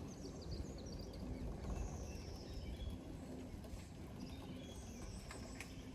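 Faint outdoor ambience: small birds chirping and twittering now and then, over a steady low rumble.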